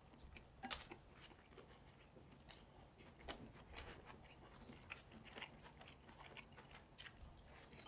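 Faint chewing and eating sounds of two people, with scattered small clicks.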